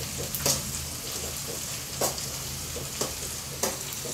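Sliced shallots and curry leaves sizzling in hot oil in an aluminium kadai, as a metal ladle stirs them, scraping and knocking against the pan four times.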